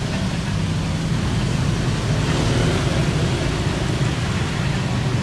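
Steady vehicle or engine rumble, low and even throughout, with a noisy hiss above it.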